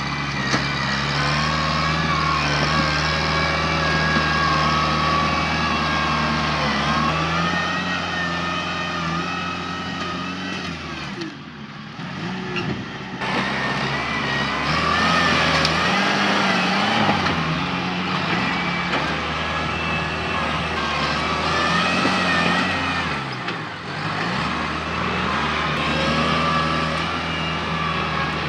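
Tractor engine running continuously while working, its pitch rising and falling as the load changes, easing off briefly twice.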